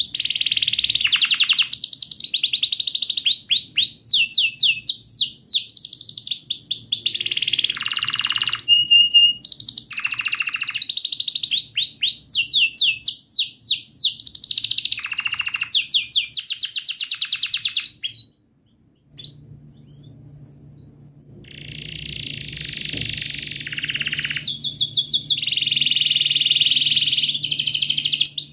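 Domestic canary singing a long, rolling song: fast trills of rapidly repeated chirps alternating with held rolls. The song cuts off abruptly about two-thirds of the way through, then resumes softer after a short gap and grows louder again.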